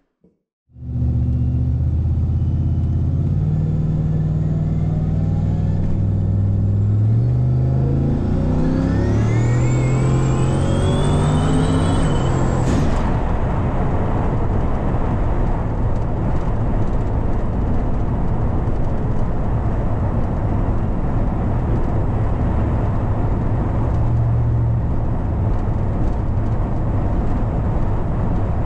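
Turbocharged LSA V8 of a 1987 Chevrolet Caprice Landau accelerating, heard from inside the cabin: the engine note climbs and a high turbo whistle rises over it. The whistle cuts off suddenly about 13 seconds in, and the engine then runs steadily as the car cruises.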